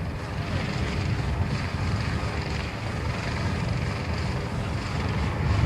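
Steady low engine rumble with wind buffeting the microphone, growing louder near the end.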